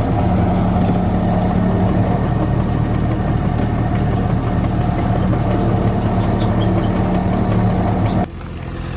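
Kubota KX71-3 mini excavator's diesel engine running steadily. The sound drops suddenly quieter shortly before the end.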